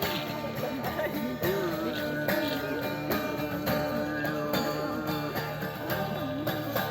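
Live band music: guitar and a regular percussion beat with jingling, and a long wavering held note in the middle.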